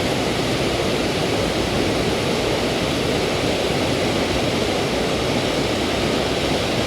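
Waterfall on a creek in full flow, a steady, even rush of falling water.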